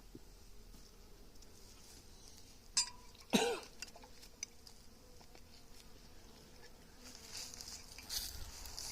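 Honeybees buzzing around an open hive, with two sharp clicks about three seconds in and some rustling, clicking handling noise near the end.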